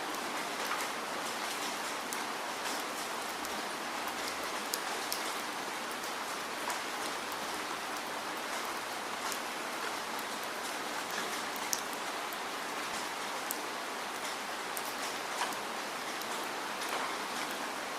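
Steady falling rain, a continuous patter with many individual drops ticking sharply on a surface.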